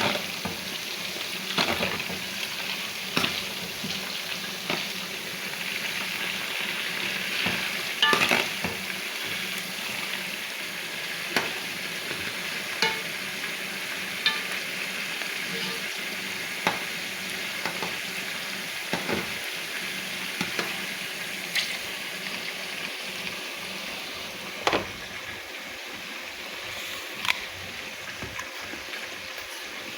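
Food frying in hot oil: a steady sizzle, with sharp clicks every second or two.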